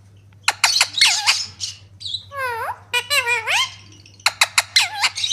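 Baby parrot calling in a rapid run of squeaks, squawks and whistled notes that swoop up and down in pitch, mixed with sharp clicks, starting about half a second in.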